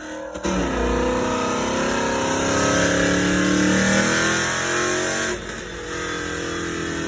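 Car engine revving under load on a chassis dyno, its pitch climbing steadily for a few seconds and then dropping away about five seconds in.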